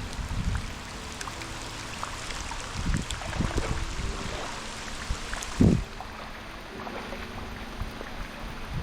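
Water splashing and sloshing over a steady hiss of rain, with a loud low thump a little past halfway.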